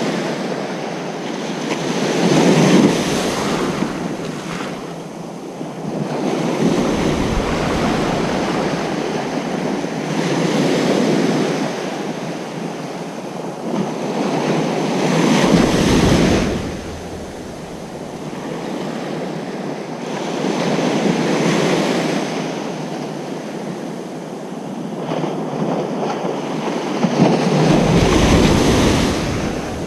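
Ocean surf on a beach, waves breaking and washing in continuously, swelling to a louder crash about five times and easing back between.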